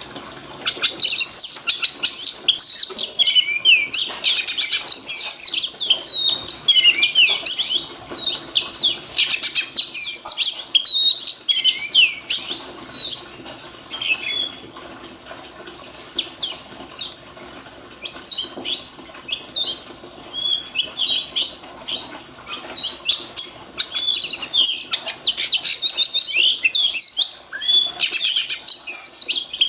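Oriental magpie-robin (kacer) singing a fast, varied song of whistles and chattering notes. It is busiest through the first half and again near the end, with a sparser spell in the middle.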